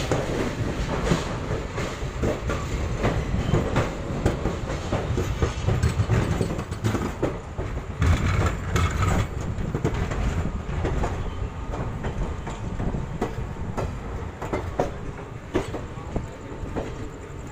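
Passenger train running along the track: a steady low rumble with the wheels clicking and clacking irregularly over the rail joints.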